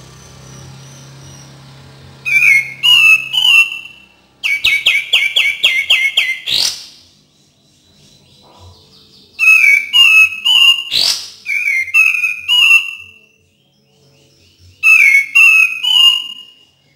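Kapas tembak bulbul song used as a lure: loud clear whistled phrases of quick falling notes, repeated in four bursts with short pauses between, one burst a fast rattling run of notes. Two sharp upward-sweeping notes stand out near the middle.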